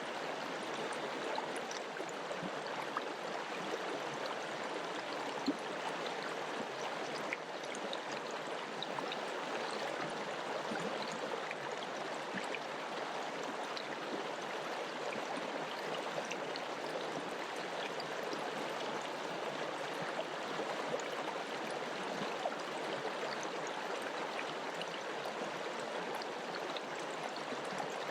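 Mountain river flowing: a steady rush of water with faint splashing ticks scattered through it.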